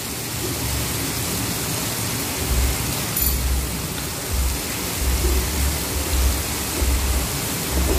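Steady hiss of a spice paste sizzling in oil in a wok, mixed with heavy rain. A low rumble comes and goes from about two and a half seconds in.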